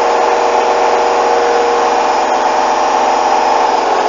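Hoover washing machine on its final high-speed spin, at up to 1400 rpm: a loud, steady motor whine over drum noise. The bedding load is badly unbalanced.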